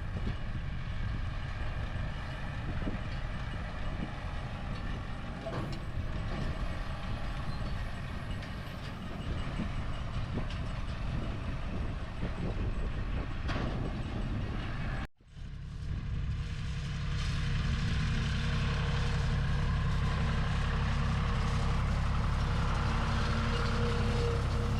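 Tractor engine running steadily in the hay field. About fifteen seconds in the sound cuts, then returns as a louder, steadier engine drone with a held tone.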